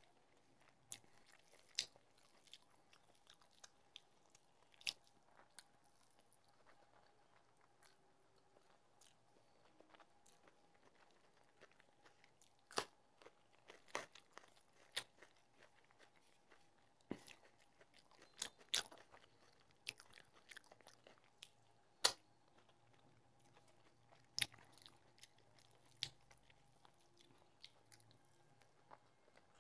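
Quiet mouth sounds of a person eating rice and fish curry by hand: soft chewing with about a dozen short, sharp clicks and crunches spread out unevenly, the loudest about two-thirds of the way through.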